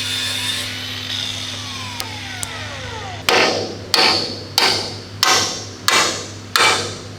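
Hammer blows driving a tight-fitting platform arm onto the Type 88 anti-aircraft gun: a steady run of strikes starting about three seconds in, one every two-thirds of a second, each ringing briefly. The fit is tight, which the crew puts down to built-up paint.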